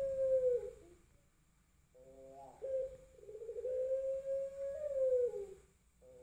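Male puter pelung (long-voiced Barbary dove) cooing: the end of one long drawn-out coo sliding down in pitch, a pause of about a second, then a short stuttering rising note leading into another long coo that slides down near the end.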